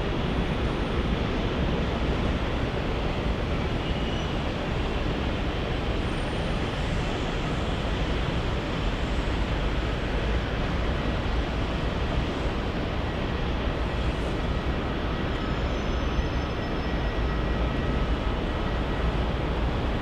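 Jet airliner engines giving a steady, even rush of noise, with a faint thin whine in the second half.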